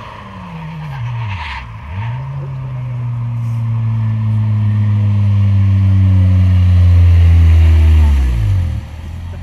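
Rally car engine: the revs fall away, then pick up and hold steady as the car comes closer and louder, before the pitch drops sharply as it passes, a little more than a second before the end.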